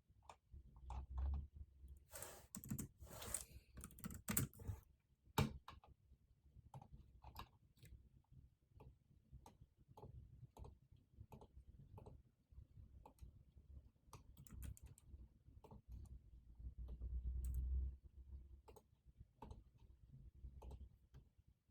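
Typing on a computer keyboard: irregular, quick keystroke clicks, with a short burst of rustling noise about two seconds in and one louder sharp click a few seconds later.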